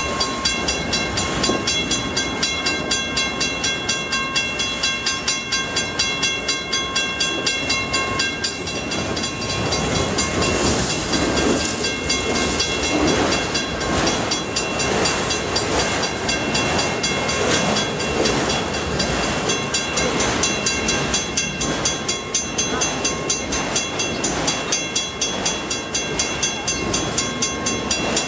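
Autorack freight cars rolling past close by in a continuous clatter with an even beat about two to three times a second. A steady high ringing runs alongside in the first third, drops out, and comes back near the end.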